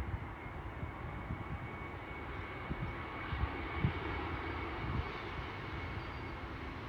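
Airliner's engines running steadily at a distance, a rushing noise with a faint high whine held at one pitch.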